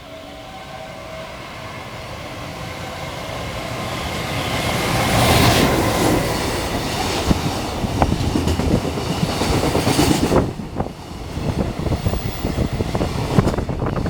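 Freight train passing at speed, growing louder over the first five seconds as it approaches. Then comes the steady rush and rapid clacking of wagon wheels over the rail joints as the train goes by.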